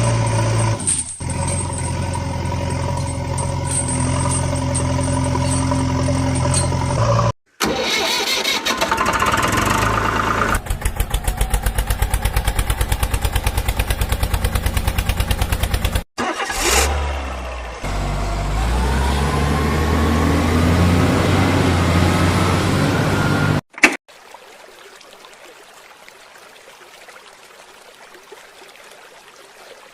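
Engine sounds in several cut-together clips: a steady running engine, then a fast, even pulsing chug, then rising revs. Each clip cuts off suddenly. After about 24 seconds only a faint hiss is left.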